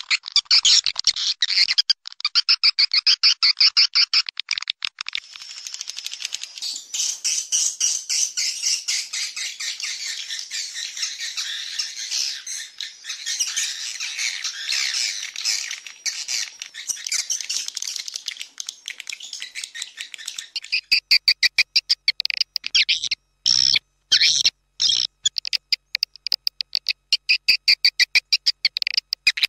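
Recorded swiftlet calls played as a lure to draw swiftlets into a nest house: fast trains of high chirps repeating many times a second. They give way to a denser twittering chatter through the middle, then return to pulsing chirps with a couple of brief breaks near the end.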